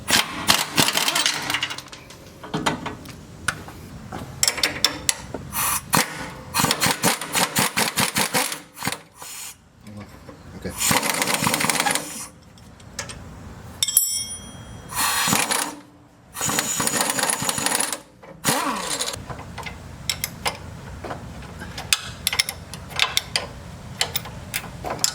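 Pneumatic impact wrench hammering in repeated bursts of one to two seconds, loosening suspension bolts on a Jeep Wrangler JK, followed by scattered short clicks.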